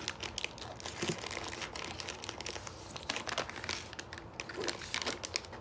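Plastic snack wrappers crinkling as packaged sweets are picked up and handled: an irregular run of small crackles.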